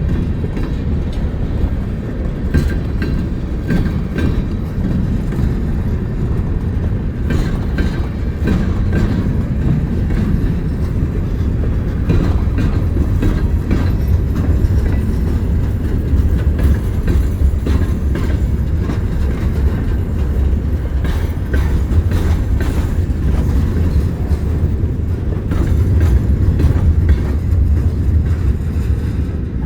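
A train rolling by: a steady heavy rumble of wheels on the rails, with scattered clicks.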